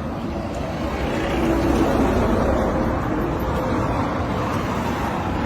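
Road traffic: a vehicle's engine and tyres passing on the road, growing louder about a second in.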